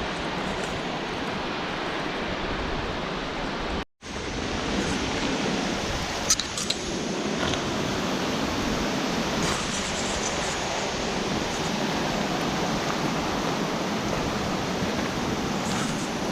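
Steady rush of water, with no tone or rhythm. It cuts out for a split second about four seconds in, and a few brief clicks come a couple of seconds later.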